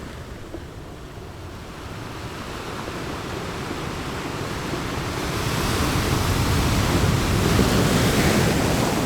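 Ocean waves breaking on the shore: the surge swells over several seconds to a peak and eases off near the end.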